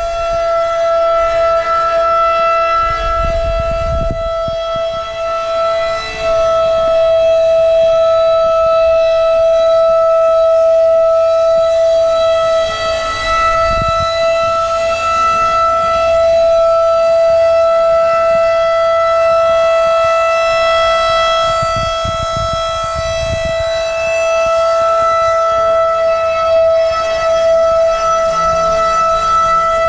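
Outdoor warning siren sounding a loud, steady tone held at one pitch, with only small swells in loudness.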